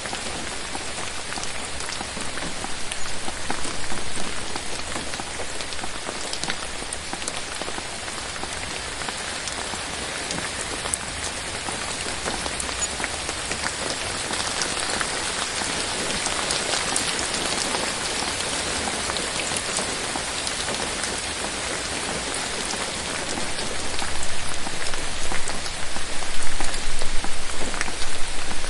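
Steady rain falling on forest foliage: a dense patter of drops that grows heavier near the end.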